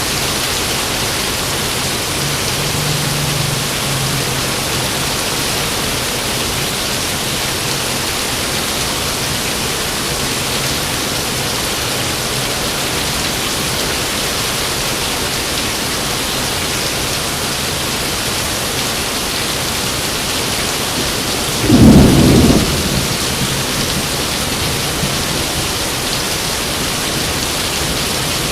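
Steady heavy rain, with one sharp, loud clap of thunder about three-quarters of the way in that rumbles away within a second or two.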